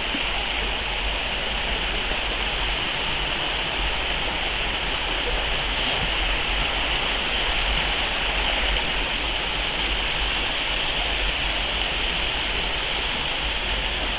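Waterfall and its stream rushing: a steady, even roar of falling and flowing water.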